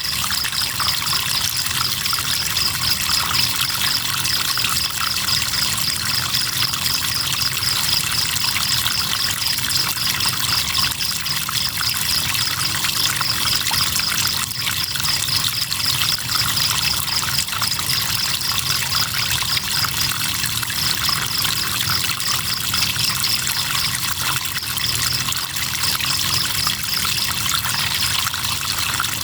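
Crickets chirping in a fast, even pulse, with a couple of short pauses in the second half, over the steady trickle of flowing river water.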